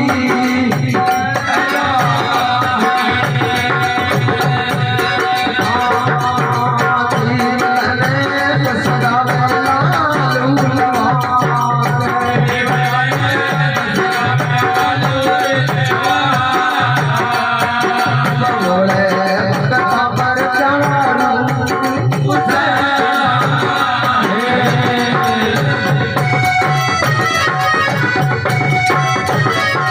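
Live Rajasthani devotional bhajan music: a melody over a steady hand-drum rhythm with rattling percussion, playing continuously.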